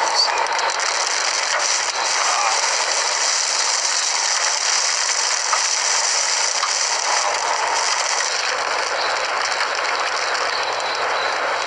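Hail pelting a vehicle: a dense, steady stream of small impacts.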